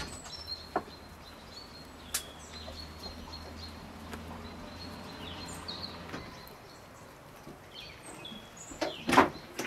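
Small birds chirping on and off, with a few light clicks and a faint low hum in the first half. Near the end come louder knocks and rustles.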